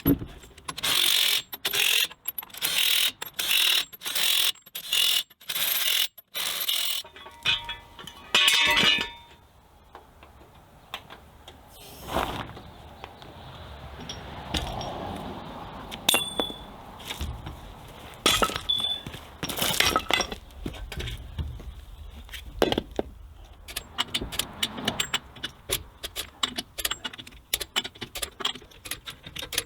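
Tools fastening lug nuts on a truck wheel: a run of short, loud rattling bursts, then quieter scattered metallic clicks and clanks from about nine seconds in.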